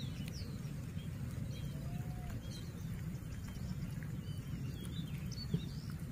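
Small birds giving short, high chirps here and there over a steady low rumble of outdoor noise, likely wind on the microphone.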